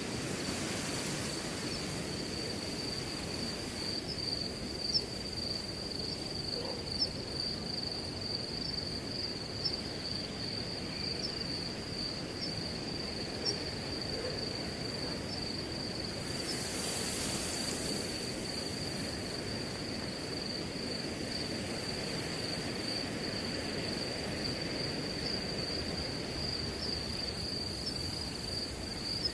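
Crickets trilling in one continuous high, steady note over a soft rustle of wind in grass, with a brief hissing gust about 17 seconds in.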